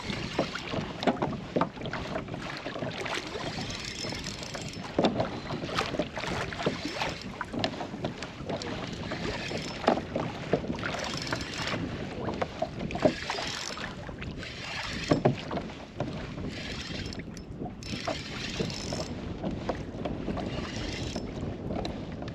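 Water sloshing and splashing against a kayak hull, with irregular small knocks and clicks and wind on the microphone.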